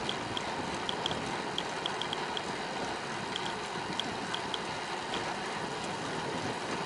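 Steady wind and rolling noise from a bicycle being ridden, with light, irregular clicks from the bike.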